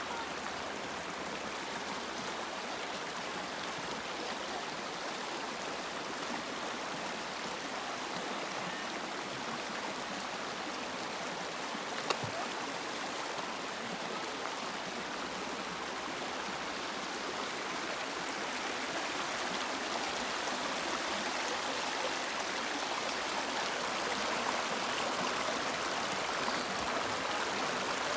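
River water flowing: a steady rush that grows a little louder in the second half, with one short click about twelve seconds in.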